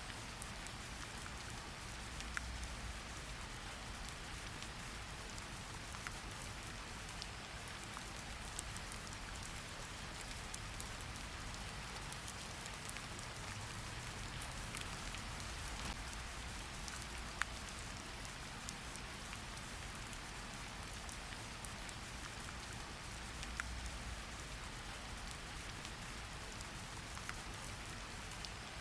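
Steady rain falling on a surface, a constant patter with the occasional louder single drop.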